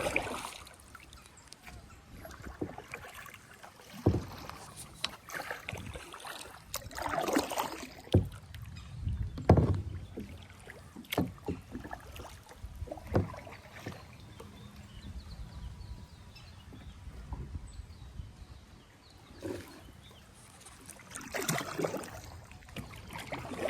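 Kayak paddling: irregular strokes of the paddle swishing and splashing through the water, with several sharp knocks scattered through.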